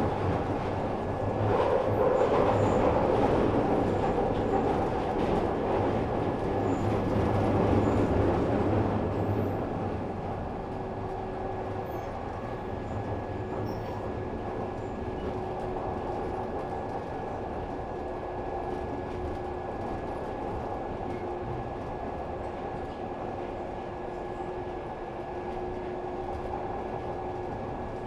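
Glasgow Subway train running: a louder rumble for about the first ten seconds, then a quieter steady noise with a faint held hum.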